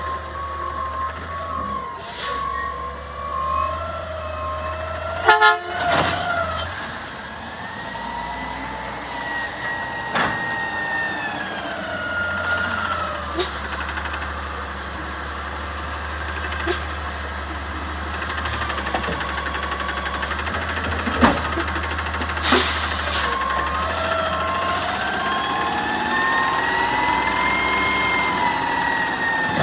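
Garbage truck at work: the diesel engine runs steadily underneath while a pitched hydraulic whine rises and falls several times as the engine revs up to drive the lift and packer. A few sharp bangs come through, and a steady beeping backup alarm sounds at the start and again near the end.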